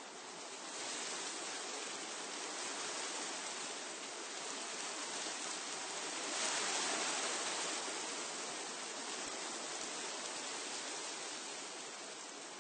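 Wind blowing through tree foliage, a steady rushing rustle of leaves. It builds about a second in, swells to a strongest gust past the middle, and eases off near the end.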